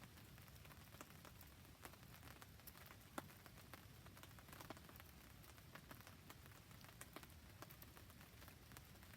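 Faint, steady rain patter mixed with a wood campfire, with scattered small ticks and crackles and one sharper snap about three seconds in.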